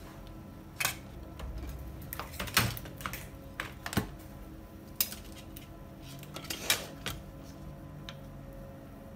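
Irregular light clicks and taps of small hard objects being handled, over a steady low hum.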